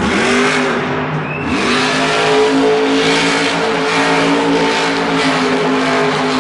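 A monster truck's engine revving hard: it climbs at the start, climbs again about a second and a half in, and then holds at high revs.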